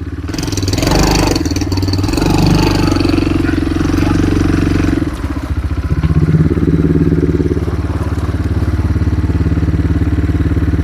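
Small motorcycle engine running, working harder for the first few seconds, then settling into a steady idle.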